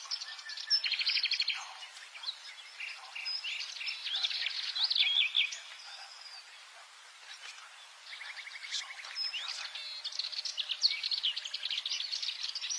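Subalpine warbler singing: quick, scratchy warbling phrases packed with fast rattling trills, with a lull of about two seconds in the middle.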